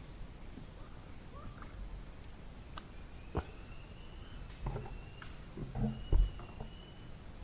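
Steady high insect buzzing, with thin faint whistle-like tones drifting in over the second half. A few knocks and thumps break in, the loudest just before the end.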